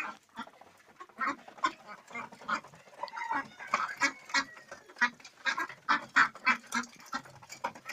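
A flock of domestic birds calling over and over in short, harsh, overlapping calls, several a second.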